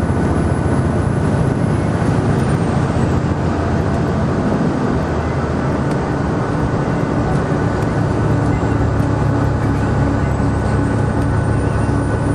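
Tour bus driving, heard from inside the cabin: a steady drone of engine and road noise with a thin, steady high whine above it.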